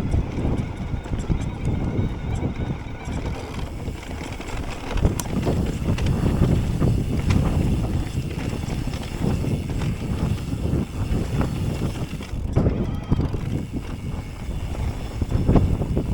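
Electric mountain bike riding downhill over rough off-road ground: a steady low rumble of tyres on dirt with many small knocks and rattles from the bike, and wind buffeting the microphone.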